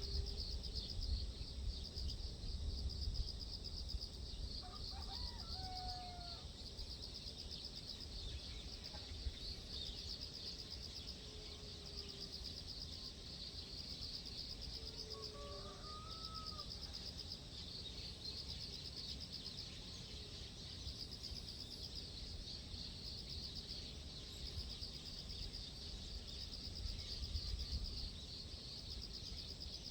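Outdoor dawn ambience: a steady, high insect chorus, low wind rumble on the microphone, and a few short bird calls about five seconds in and again around eleven and fifteen seconds.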